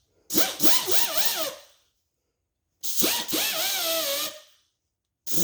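Die grinder running an abrasive cartridge roll against a Ford 302 connecting rod in three short bursts, each about a second and a half long. Its whine dips and wavers in pitch as the roll bites into the metal.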